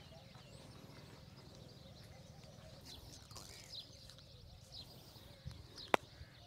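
Faint bird chirps over a quiet open-air background, with a single sharp click near the end.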